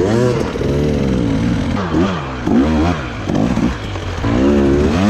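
Enduro dirt bike engine revving up and down under repeated throttle blips as it works through a technical trail section.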